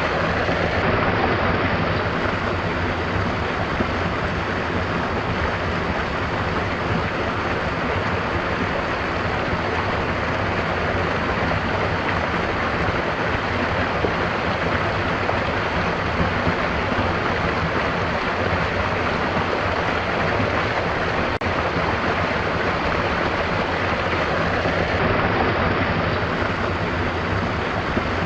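Stream water rushing and gurgling in a steady, unbroken flow.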